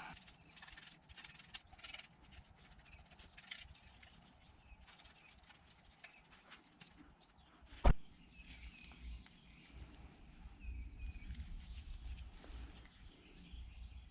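Faint scattered taps and small clicks, with one sharp knock about eight seconds in that is much louder than everything else.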